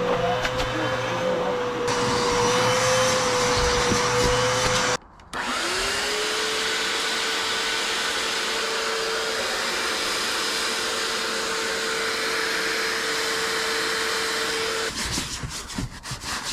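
Vacuum cleaner running with a steady whine and rush of air. It cuts off about five seconds in, then starts again, its pitch rising as the motor spins up, and runs steadily until near the end.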